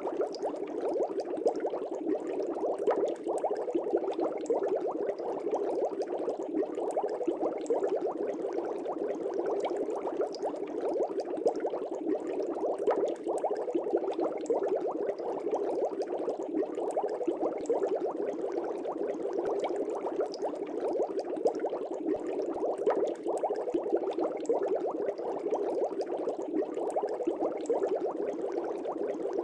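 Aquarium air bubbles rising and breaking at the water surface in a continuous, dense stream of small gurgling pops.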